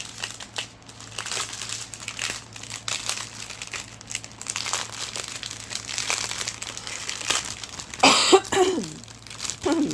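Plastic packaging crinkling and rustling as it is handled, with a brief sound of a voice about eight seconds in.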